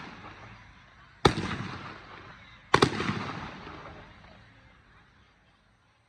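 Aerial firework shells bursting: two sharp bangs about a second and a half apart, the second a quick double, each trailing off in a long echo that fades away near the end.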